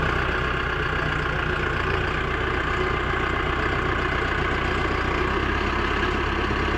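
A heavy vehicle's engine running steadily at an even speed.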